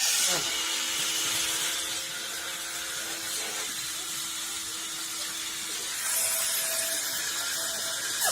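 Small electric motor running with a steady whine over a high hiss; about six seconds in its pitch steps higher and it gets louder.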